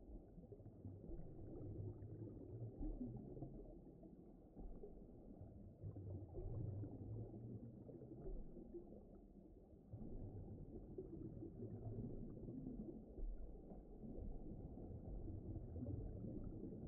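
Faint, muffled low rumbling ambience, like an underwater soundscape, with nothing above a low, dull register. It swells and ebbs unevenly with no clear rhythm or tone.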